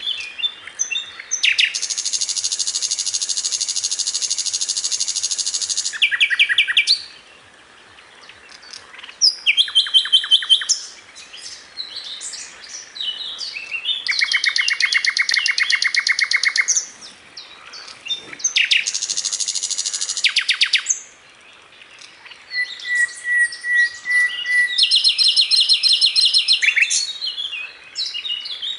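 Sikatan londo flycatcher singing hard: long, rapid, high-pitched trilled phrases lasting a few seconds each, broken by short pauses filled with scattered chirps. It is a masteran, a song recording played to teach other songbirds.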